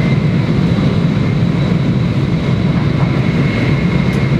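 Steady running noise inside a Max double-decker Shinkansen car travelling at speed: an even low rumble with a faint, steady high whine above it.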